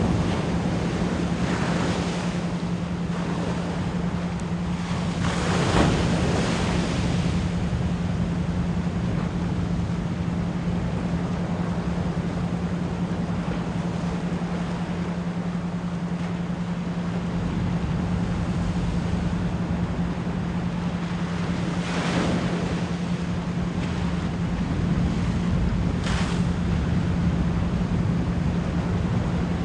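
Ocean waves washing in, with swells about two, six, twenty-two and twenty-six seconds in, layered over a steady 174 Hz isochronic pure tone.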